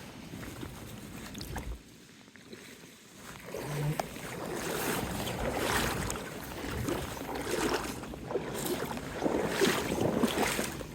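Water splashing and sloshing with wind buffeting the microphone, growing louder about four seconds in and coming in repeated swells.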